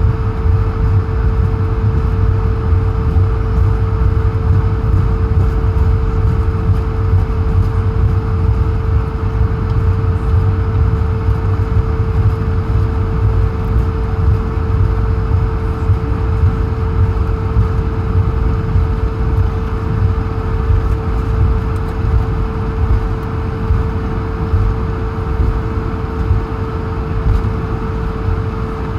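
Cabin noise inside an Airbus A220-100 taxiing: a steady low rumble with a constant mid-pitched hum over it, the Pratt & Whitney PW1500G geared turbofans at taxi power.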